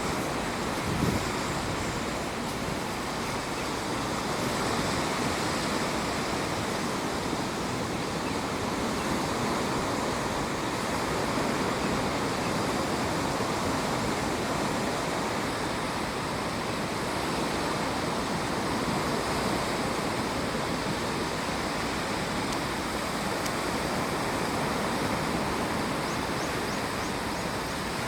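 Steady rushing of water, an even wash of noise that holds level without rising and falling.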